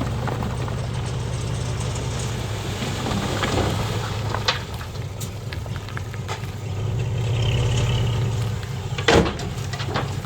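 Heavy diesel earthmoving machinery running steadily, with a few short sharp clanks and scrapes over the engine, the loudest about nine seconds in.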